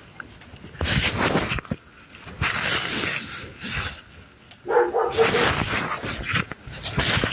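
A dog making a series of breathy huffs, with a short whine about five seconds in.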